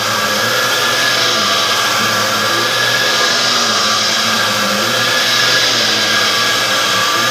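Dyson vacuum cleaner running steadily at full speed: loud rushing airflow with a steady high motor whine.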